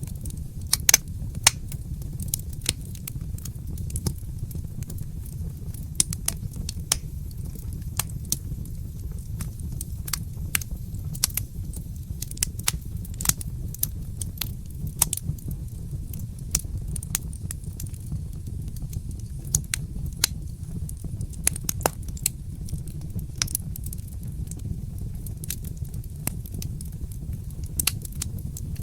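Fireplace fire crackling: irregular sharp pops and snaps, several a second at times, over a steady low rumble.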